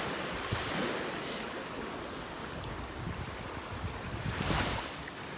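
Ocean surf washing on a beach, with wind buffeting the microphone. A wave breaks and swells louder about four and a half seconds in.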